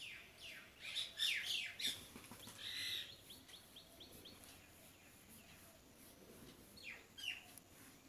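Faint chirping of small birds: a quick run of short falling chirps in the first three seconds, then a couple more about seven seconds in.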